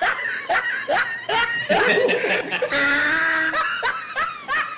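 Laughter: a burst of high-pitched giggling and snickering that starts abruptly and goes on in short bouts.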